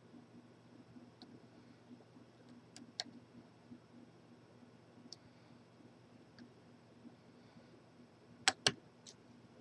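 Faint, scattered clicks of lock picks working inside a large Corbin padlock, with two sharper, louder clicks in quick succession about eight and a half seconds in, over a faint low hum.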